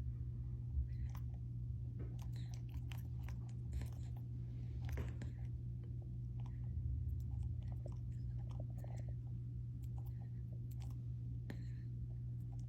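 Irregular small clicks and crunches of a pet nibbling and biting at claws, over a steady low hum.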